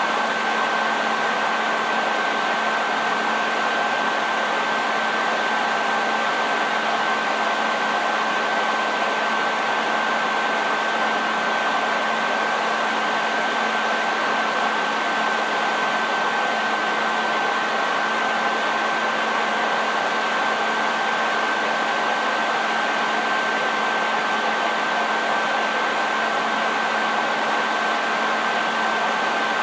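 Hair dryer running steadily: an even rush of blown air with a constant high whine from its motor and fan and a low hum beneath.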